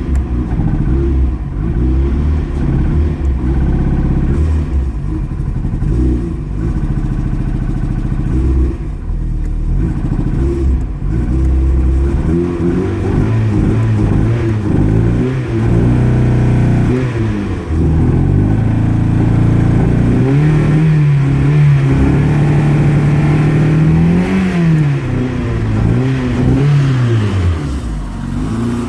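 A cold vehicle engine running roughly with an uneven, stumbling beat: a cold misfire. It is revved several times, but the revs climb only a little, hang and fall back, so it won't rev freely.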